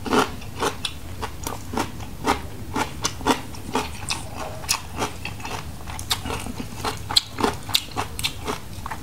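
A person chewing food close to the microphone, with sharp, irregular crunching clicks about two or three times a second.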